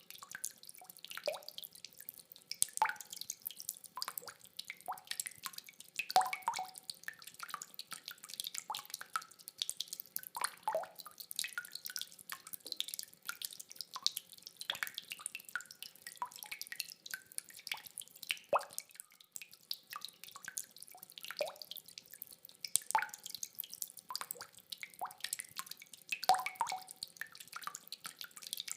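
Rainwater dripping: single drops fall irregularly, several a second, some landing with a short ringing plop. No thunder is heard.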